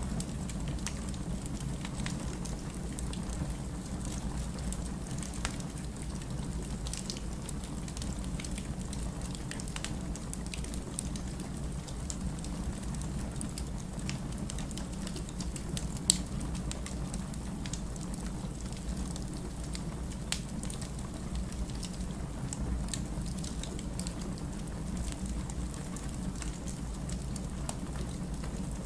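Wood fire crackling in a fireplace: a steady low rumble with scattered small pops and one sharper crack about halfway through.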